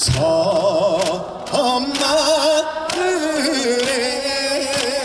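Live trot song: a voice singing long notes with a wide, even vibrato over band accompaniment, one phrase giving way to the next about a second and a half in.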